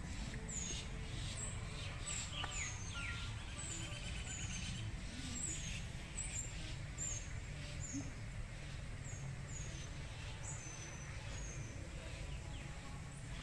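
A small bird calling outdoors among trees, a series of short, high, downward-sliding chirps repeated about once or twice a second, growing sparser near the end, over a steady low background rumble.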